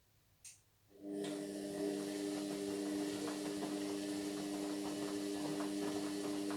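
Indesit MyTime washing machine, silent at first. A single click comes about half a second in, then a steady motor hum starts abruptly about a second in and runs on, with light ticking and rattling over it.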